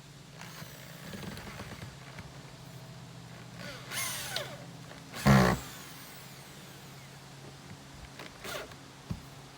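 Rustling and handling noises of work on a roof, with one loud thump about five seconds in, over a steady low hum.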